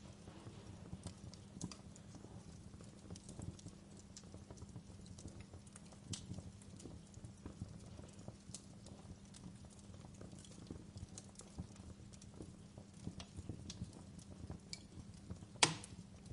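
Wood fire crackling: irregular small pops and snaps over a low steady rumble, with one sharper, louder pop near the end.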